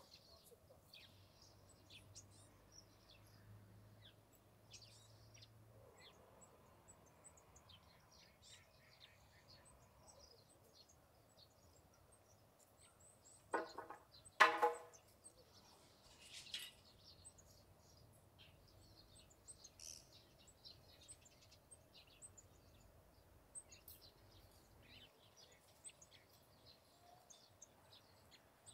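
Small wild birds chirping and twittering on and off, faint. About halfway through come two short, much louder calls close together.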